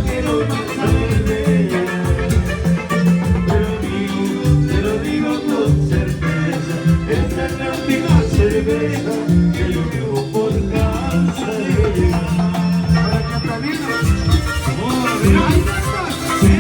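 Latin dance music played by a band, with a steady beat, shaker percussion and some singing.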